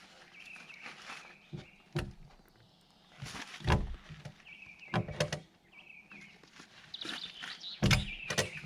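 Irregular knocks and thuds, the loudest about two, four, five and eight seconds in, with short bird chirps between them.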